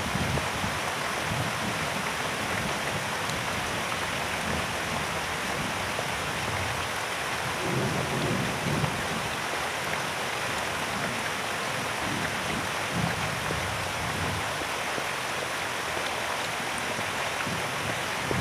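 Heavy rain falling steadily, with low rumbles of thunder swelling about eight seconds in.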